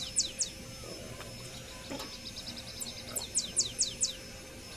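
A songbird singing: quick runs of high, short notes that each fall in pitch, once at the start and again from about two and a half seconds in, over a faint steady hum and a couple of soft taps.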